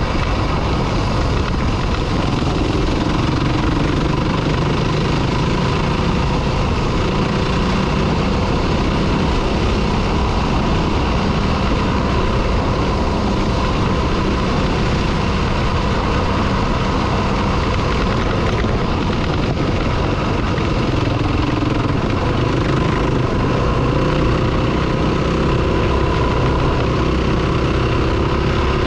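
Dirt bike engine running steadily as the bike is ridden, its pitch drifting up and down a little, over a constant rushing noise.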